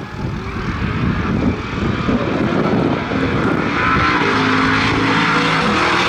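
Drag-racing engine at full throttle during a pass down the street, growing louder and settling into a steady high-pitched drone in the last couple of seconds.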